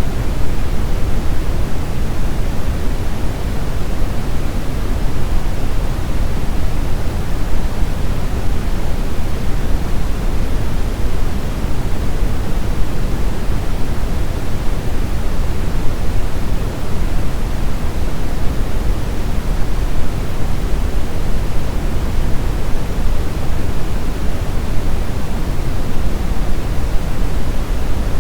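Steady brown noise: an even, unbroken rushing hiss with most of its weight in the low end, deep and rumbling rather than bright.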